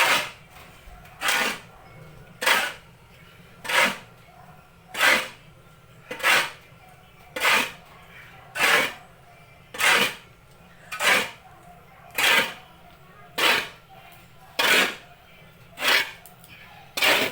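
Rhythmic scraping strokes from working the sawdust mixture by hand, about one stroke every 1.2 seconds, fourteen or so in all, each short and even.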